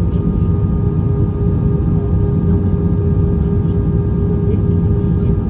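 Airbus A320 cabin noise heard from inside the cabin in flight: a steady low rumble of engine and airflow, with a constant hum of a few steady tones over it.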